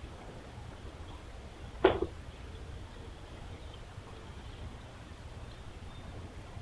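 A single short, sharp knock about two seconds in, over a steady low hum.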